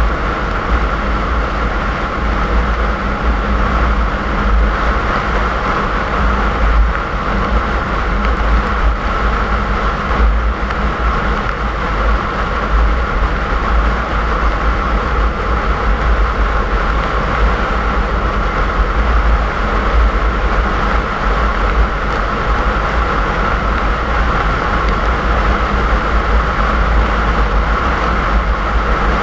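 Steady road noise of a car driving on a snowy road: a constant deep rumble from tyres and engine under an even hiss, with no change in speed.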